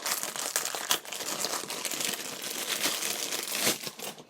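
Packaging being crinkled and handled while an item of the kit is unwrapped: a dense crackle of many small clicks that stops abruptly just before the end.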